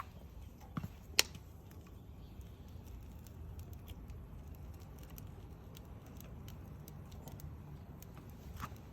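Wood bonfire crackling, with scattered small pops and one sharp louder pop about a second in, over a low rumble.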